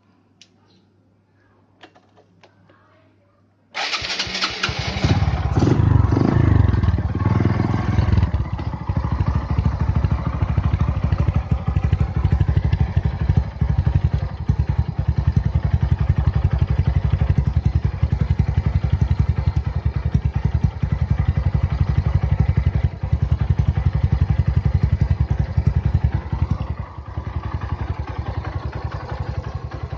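Suzuki Shogun SP 125 underbone motorcycle's single-cylinder four-stroke engine breathing through a gutted muffler: it starts about four seconds in, revs unevenly for a few seconds, then idles with a loud, rapid pulsing exhaust note. A few faint clicks come before it starts.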